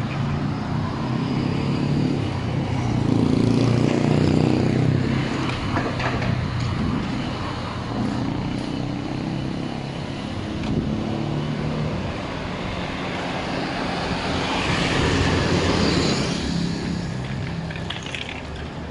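Street traffic: motor vehicle engines running and passing close by, swelling louder about three to five seconds in and again around fifteen seconds.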